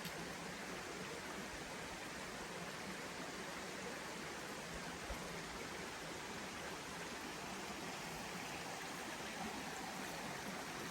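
Steady rushing of a forest stream, with one soft thump about five seconds in.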